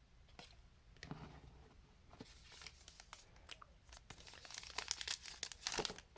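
Plastic wrapper of a trading card pack torn open and crinkled by hand: a few light clicks, then dense crackling rasps that grow louder and busier over the last two seconds.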